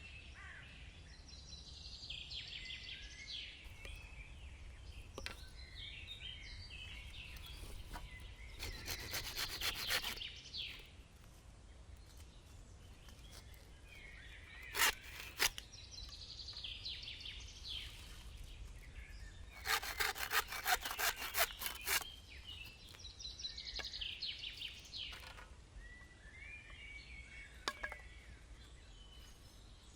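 Wood being sawn by hand in two short bouts of rapid strokes, with a few sharp clicks between them. Birds chirp on and off throughout.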